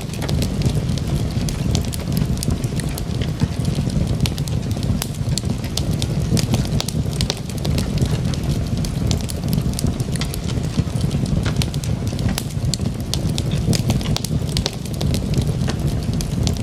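Wood fire of burning logs in a fireplace: a steady low rumble of the flames with frequent sharp crackles and pops from the wood.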